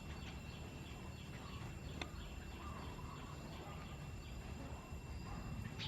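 Outdoor ambience: a steady low rumble under two faint, steady high-pitched tones, with a few faint chirps and one sharp click about two seconds in.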